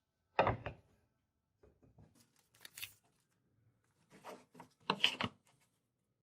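Four short scraping or rubbing strokes of hand work, about a second or so apart, the first and last the loudest.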